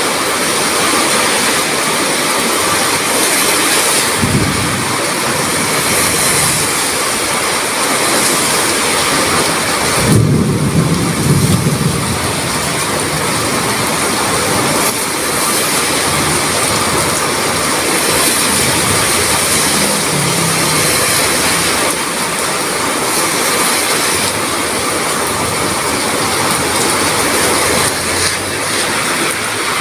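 Heavy rain pouring steadily, with low rolls of thunder, the strongest about ten seconds in.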